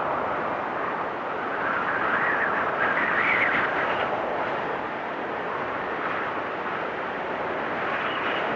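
Blizzard wind gusting and howling, a steady rushing roar whose whistling tone swells and falls every few seconds.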